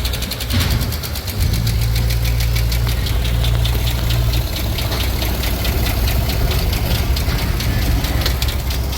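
2006 GM 4.8-litre V8 engine running steadily at idle, with a fast, even ticking over its low rumble. The rumble grows stronger about a second and a half in.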